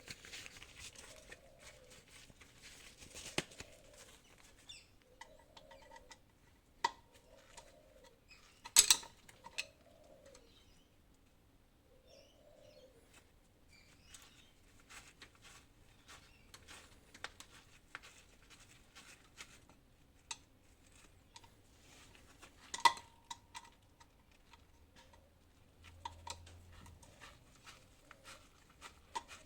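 Hand tools and metal parts being handled while the engine is worked on: scattered light clicks and ticks, with sharp metallic clanks about 9 seconds in and again near 23 seconds, the later one ringing briefly. A faint chirp-like sound repeats every second and a half or so through the first dozen seconds.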